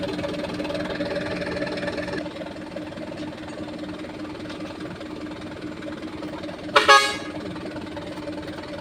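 Truck engine idling steadily, with one short vehicle horn toot near the end.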